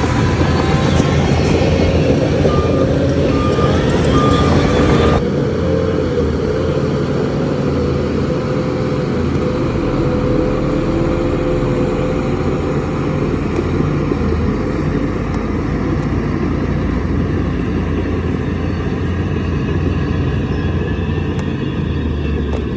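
Heavy diesel machinery engine running steadily with a deep rumble, with three short beeps about three seconds in. The sound changes abruptly about five seconds in.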